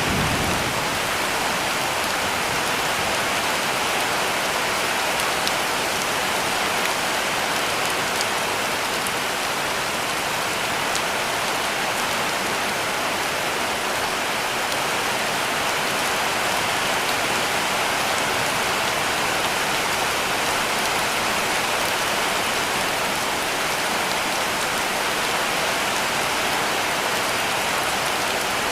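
Heavy rain falling steadily on a cabin roof: an even, unbroken hiss of rain on the roof with occasional faint single drop ticks.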